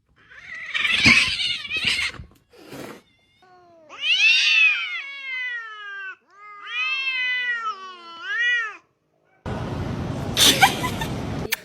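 A cat yowling. One long wavering call comes about four seconds in, then a run of shorter warbling calls, the last one rising. Bursts of noise come before and after the calls.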